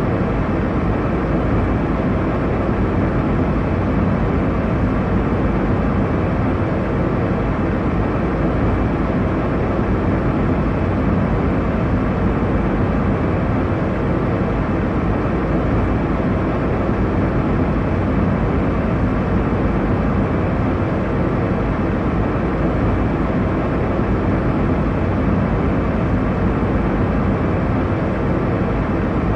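Airliner cabin noise in flight: a steady, even rumble and rush of engine and airflow noise, weighted to the low end, with a faint steady hum.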